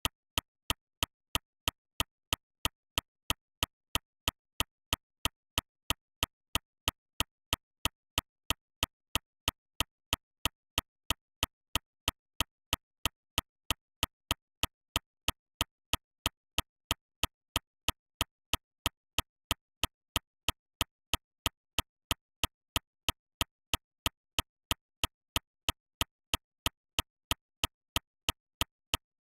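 Steady, evenly spaced sharp clicks, about three a second, with silence between them, like a metronome or click track.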